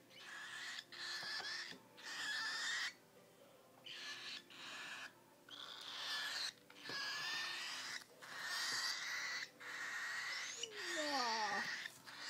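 Young cockatiel chicks giving a string of raspy, hissing calls, each about a second long with short breaks between them.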